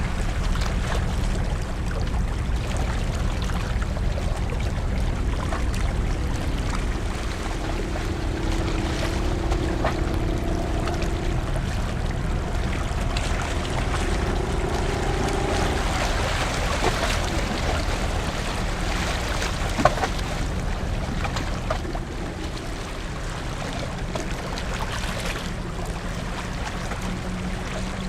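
Large car ferry's engines running with a steady low rumble under the rushing wash of water, as the ship gets under way. A single sharp knock about two-thirds of the way through.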